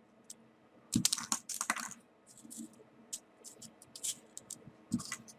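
Small folded paper pieces being handled and pushed into a paper 3D origami model: a cluster of crisp paper rustles and taps about a second in, then scattered faint rustles and clicks, with another tap near the end.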